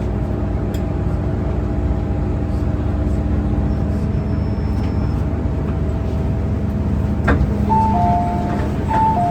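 MTR M-Train running with a steady rumble and a humming whine of several steady tones that fades out about halfway through. A sharp click comes about seven seconds in, then an alternating two-tone electronic chime, typical of the doors opening at a platform.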